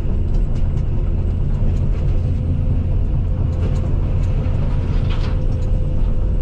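Case CX220E excavator's diesel engine running steadily, a deep continuous hum with a thin steady whine above it and a few light knocks.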